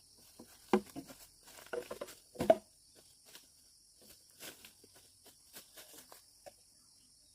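Irregular knocks and taps, two of them louder, about three-quarters of a second and two and a half seconds in, with lighter clicks and rustles between, over a steady high insect buzz.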